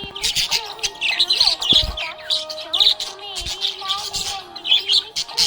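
Budgerigars chirping and warbling in quick, busy runs of short high notes, over background music with a steady melody.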